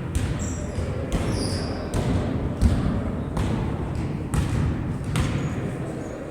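A series of sharp thumps, roughly one a second, over a steady low rumble.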